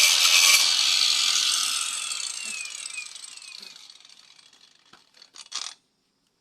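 A power tool grinding or sanding wood, then switched off about a second and a half in and winding down with a falling whine. There are a few short clicks near the end.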